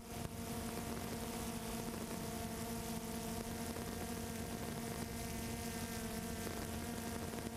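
Steady motor hum of a camera drone's propellers, an even pitched buzz that does not change.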